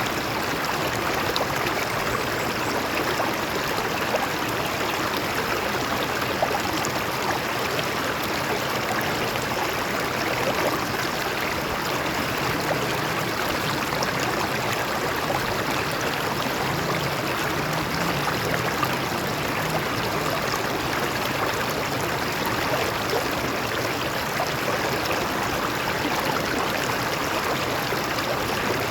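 A stream of water flowing steadily over rocks, a continuous even rush and splash.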